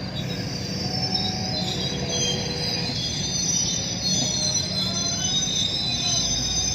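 Train rolling along the track, its steel wheels squealing high-pitched and wavering over a steady rumble.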